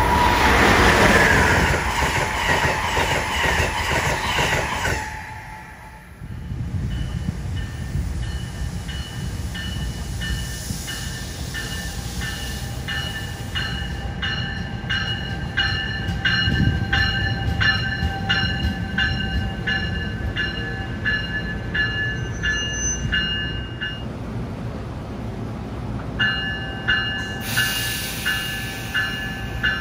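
A train running through, first with loud rail clatter. Then, under a low rumble, a high ringing tone repeats about twice a second. The ringing stops briefly near the end and starts again.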